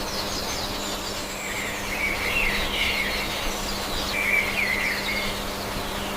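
Birds chirping in two bouts of quick, warbling high calls, over a steady low hum and background hiss.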